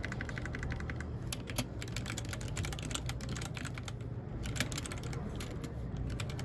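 Mechanical keyboard typing: irregular keystroke clicks, with a fast, evenly spaced run of clicks in the first second, over a steady low hum.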